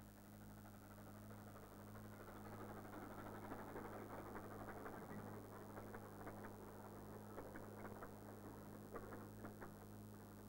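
Faint sound of a narrow-gauge passenger train rolling past: a low rumble with scattered clicks of wheels on the track, under a steady electrical hum.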